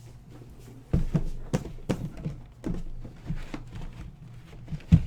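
Sealed trading-card boxes being handled and set down on a table: a run of irregular knocks and thuds starting about a second in, the loudest near the end.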